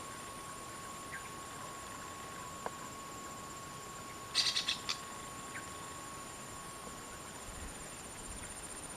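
Steady high drone of insects, and about halfway through a bird gives a quick run of about five loud notes.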